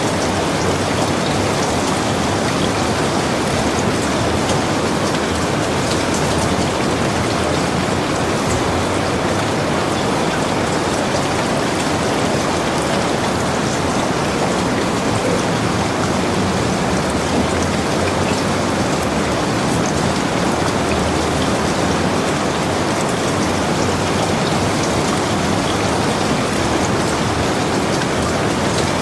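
Heavy rain falling steadily, a dense even hiss with scattered single drop hits.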